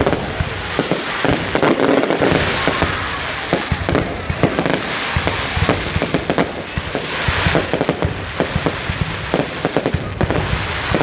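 Fireworks going off in a dense, continuous barrage of irregular bangs and crackles, several each second, with a hissing swell about seven seconds in.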